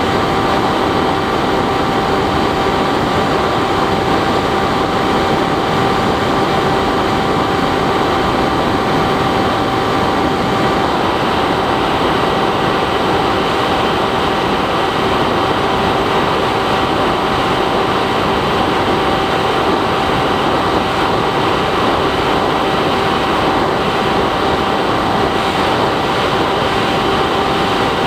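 Bixler 3 RC plane's electric motor and propeller running at a steady cruise throttle, a constant hum over loud wind rush, heard through the camera on board.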